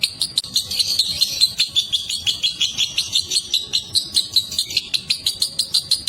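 Lovebird chattering in a long unbroken run of rapid, shrill repeated notes, about six a second: the sustained 'ngekek panjang' song prized in fighter lovebirds.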